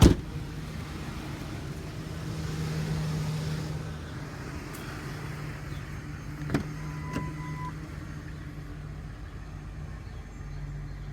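A vehicle engine idling with a steady low hum. A sharp knock comes at the very start, then a pair of clicks past the middle and a short high beep.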